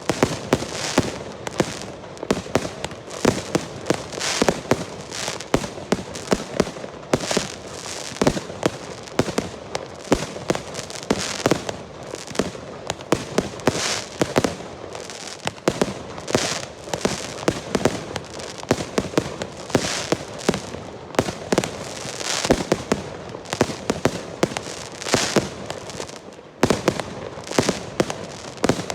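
Girândolas, Portuguese festival firework rocket batteries, going off in a dense, continuous barrage: irregular sharp bangs several times a second, some louder than others, with crackle and hiss between them.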